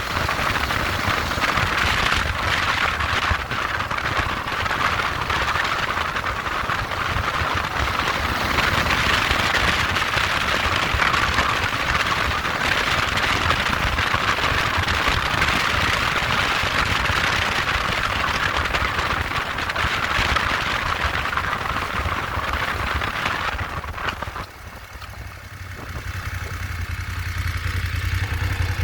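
Motorcycle on the move: a steady rush of wind and road noise over a low engine note. About 24 seconds in the rush drops away suddenly, leaving the low engine rumble, which swells again near the end.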